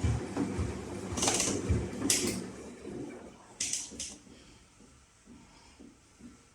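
Gorenje washing machine running: low knocks and rumble with a few short hisses, dying down to quiet about halfway through.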